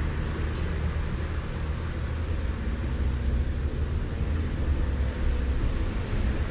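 Gusty storm wind buffeting the microphone: a steady, unbroken low rumble with a rushing hiss over it.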